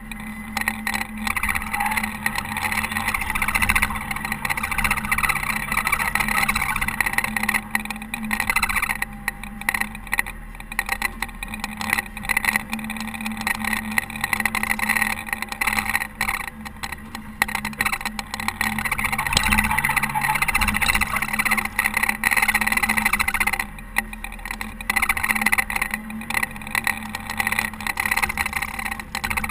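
Caterpillar TH330B telehandler's diesel engine running while snowploughing, with a steady hum and a level that rises and falls.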